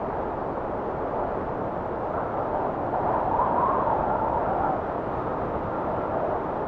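Steady blizzard wind rushing, with a gust that swells and howls a little higher about three seconds in, then eases back.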